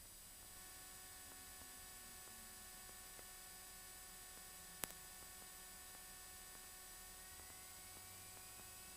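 Near silence: a faint steady electrical hum and hiss, with one short click about five seconds in and a faint whine rising near the end.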